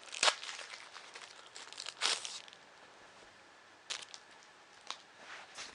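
Plastic packaging crinkling and tearing as a metal shaft is pulled out of it, with two louder rustles near the start and about two seconds in, then quieter crinkles and clicks.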